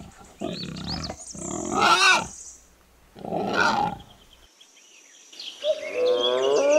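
Wild boar grunting: three rough grunts over about four seconds, the middle one loudest. Near the end a moose starts a long moaning call that wavers in pitch.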